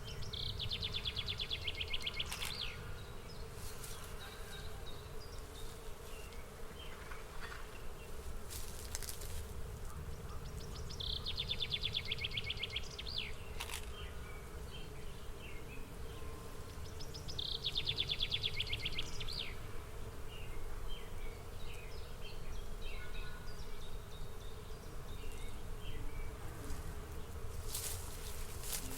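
Insect trilling: a rapid, evenly pulsed buzzing trill three times, each about two seconds long, over a steady low outdoor rumble with faint scattered clicks.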